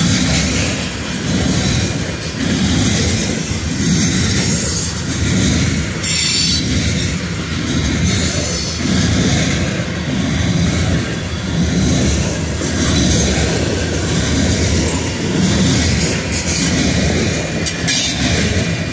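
Coal hopper cars of a long freight train rolling past: steel wheels rumbling and clattering steadily over the rails, the rumble swelling and dipping every second or two as wheel sets go by.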